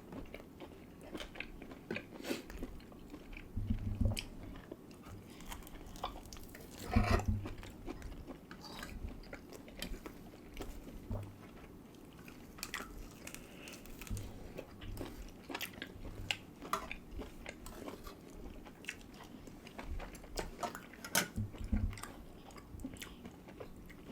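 People chewing and biting food, with many small wet clicks and a few short low thumps, the loudest about seven seconds in.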